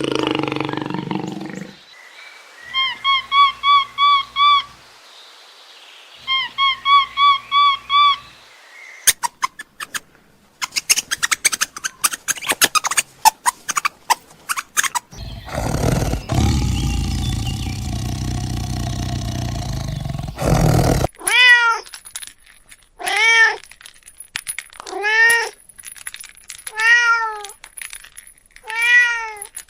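A run of different animal sounds, one after another: a low call fading out at the start, two quick series of short high chirps, a run of rapid clicks, and a rough noisy stretch. Then a domestic cat meows about six times, one meow every second and a half or so, through the last third.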